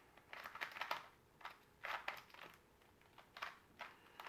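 Plastic 2x2x3 twisty puzzle cube being turned by hand: faint bursts of quick clicking layer turns, with short pauses between groups of moves.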